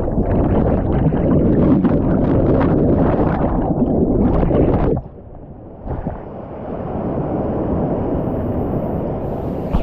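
Rushing whitewater river and wind buffeting the microphone, loud for about five seconds, then cutting off suddenly. It returns quieter and steadier a second or so later.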